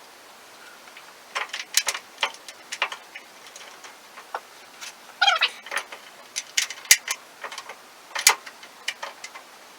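Irregular sharp clicks and clinks of metal parts and hand tools being handled while sawmill parts are fitted, with a short squeak about five seconds in.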